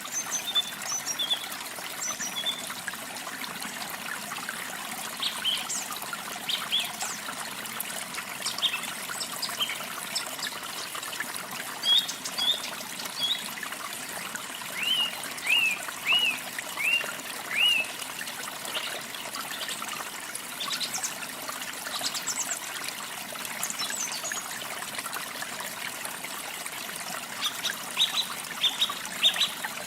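Water trickling steadily, with small songbirds chirping over it: scattered high chirps, a run of five slurred whistled notes in the middle, and a quick burst of chirps near the end.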